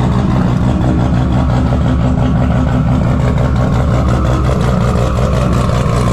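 Car engine running steadily at idle, a low, evenly pulsing rumble.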